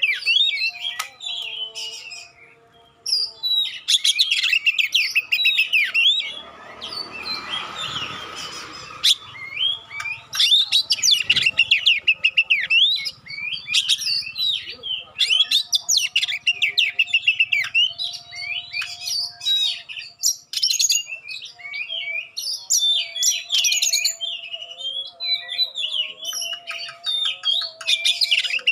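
Oriental magpie-robin (kacer) singing a long, varied song of rapid chirps, sharp notes and whistles, broken by brief pauses. A short hissing noise lies under the song about seven seconds in.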